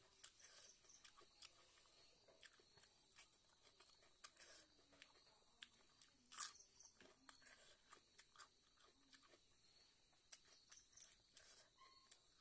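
A person chewing and biting food close to the microphone: quiet, scattered crunches and mouth clicks, the loudest about six and a half seconds in.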